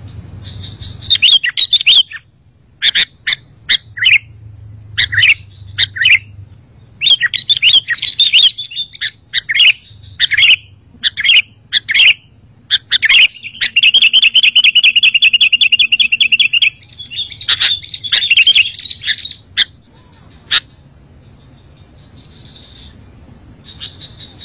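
Sooty-headed bulbul calling in a rapid series of short chirps and bubbly phrases. A fast, even trill lasts about two and a half seconds in the middle. The calls thin out to faint notes near the end.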